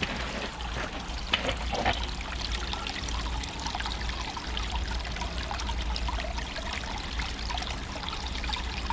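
Water trickling and splashing steadily down the stones of a pondless waterfall, with a low steady rumble underneath.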